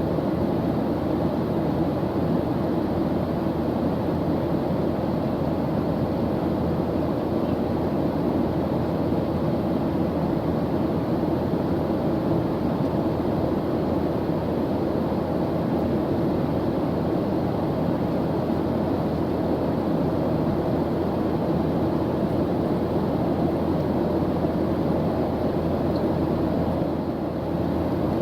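Airplane engine noise in flight: a steady, even low rushing drone that does not change.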